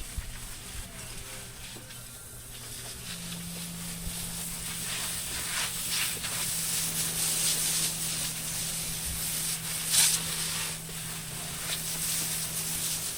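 Water spray hissing on pavement, with a steady low hum joining about three seconds in and a brief louder gush near ten seconds.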